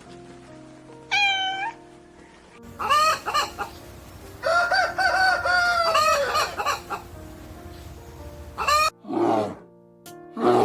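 Rooster crowing, with a long held cock-a-doodle-doo about four and a half seconds in and shorter calls before it, over background music. Two rough, noisy bursts follow near the end.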